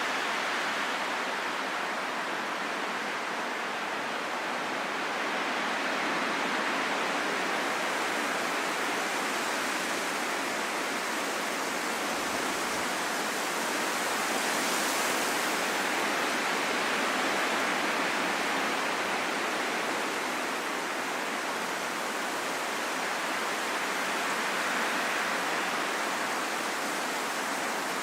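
Wind blowing steadily, a rushing hiss with little low rumble that swells and eases slowly every several seconds.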